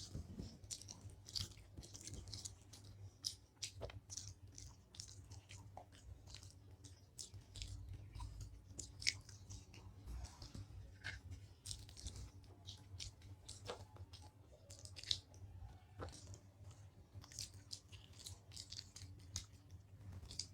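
Faint chewing of sweet potato, a steady run of short, wet mouth clicks and smacks.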